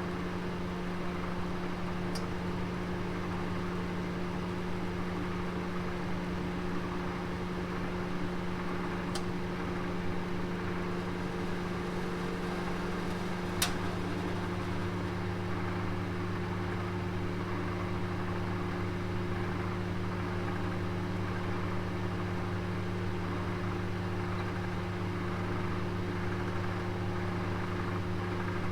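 Oven running with a roast inside: a steady mechanical hum with a light hiss. Three faint ticks come at about 2, 9 and 13 seconds in, the last the sharpest, and a lower hum joins just after it.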